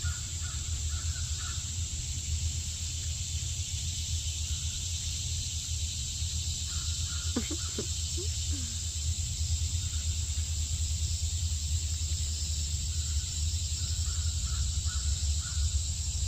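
Cicadas droning steadily in a high, even buzz, with a bird calling in short runs of repeated notes near the start, in the middle and near the end.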